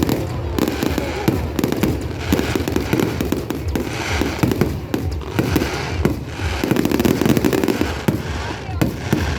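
Fireworks display: aerial shells bursting in quick succession, one bang after another with crackling between, and people's voices underneath.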